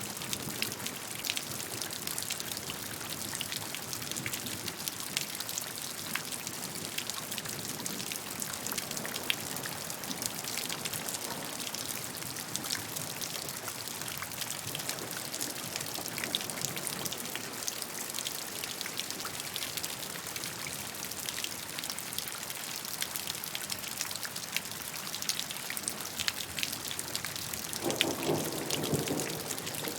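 Steady rain falling, with many separate drops ticking on a surface. A low rumble comes in near the end.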